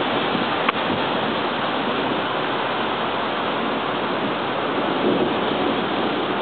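Steady hiss of thunderstorm rain and wind, with a single short click about two-thirds of a second in.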